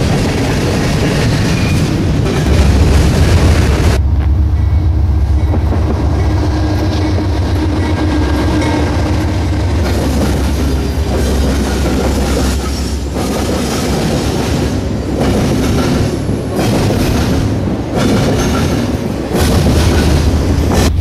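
A freight train rolling past, its cars rumbling steadily and clattering over the rail joints.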